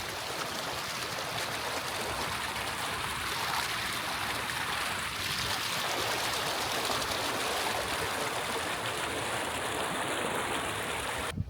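Steady rush of a mountain stream flowing, cutting off abruptly just before the end.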